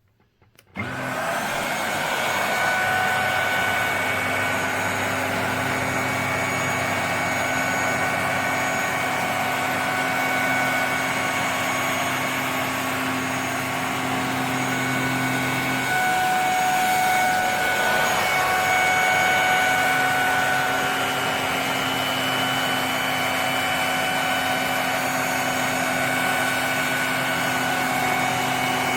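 HYCHIKA handheld mattress vacuum cleaner switching on about a second in, then running steadily with a whirring motor whine. Its tone changes about halfway through.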